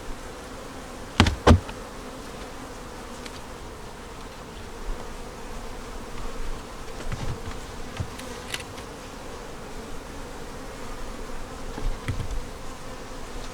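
Honey bees buzzing steadily around a hive being opened, with two sharp knocks a little over a second in and a few softer knocks later as the wooden hive boxes are handled.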